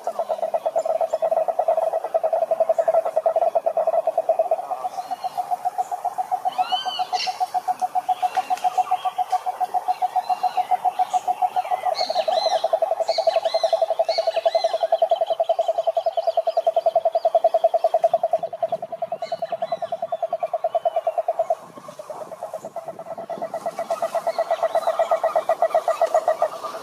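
A pond chorus of frogs or toads calling: a dense, rapidly pulsing trill at a steady pitch, dipping briefly about three-quarters of the way through before resuming. Higher chirps and short gliding whistles from other callers sound over it through the middle seconds.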